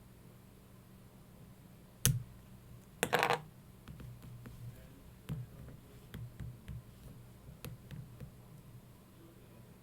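A single sharp click about two seconds in, then a short clattering rattle about a second later, followed by a few faint scattered ticks, over a low steady hum.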